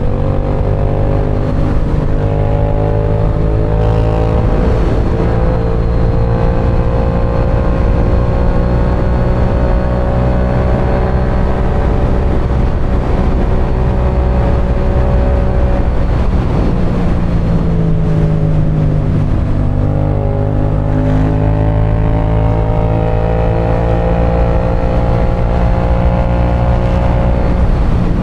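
Parallel-twin motorcycle engine running at road speed, heard from the rider's position with wind rush. Its pitch climbs slowly, drops about two-thirds of the way in, then climbs again.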